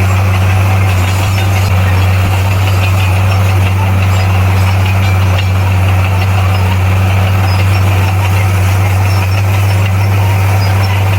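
Bulldozer's diesel engine running at a steady speed, a constant low drone.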